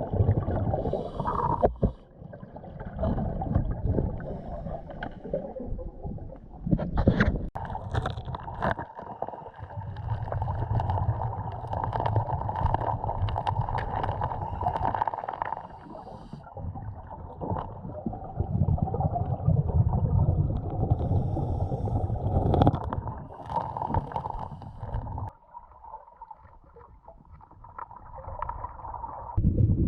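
Underwater scuba breathing through a regulator: a cycle every few seconds of low rumbling exhaust bubbles, alternating with a fainter hiss on the inhale, and a few sharp clicks.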